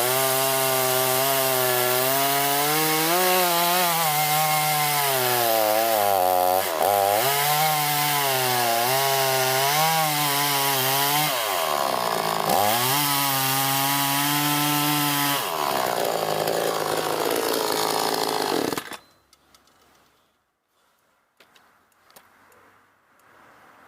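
Chainsaw cutting wood, its pitch wavering and dipping under load, with two deeper dips partway through. It cuts off suddenly near the end.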